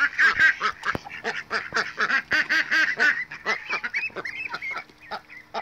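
A flock of ducks calling: many quick, overlapping quacks in a dense run that thins out and gets quieter over the last couple of seconds.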